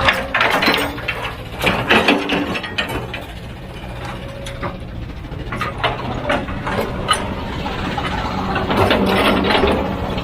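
Heavy diesel machinery working: a steady low engine rumble with many irregular clanks and knocks of metal and rock, thickest in the first few seconds and again near the end.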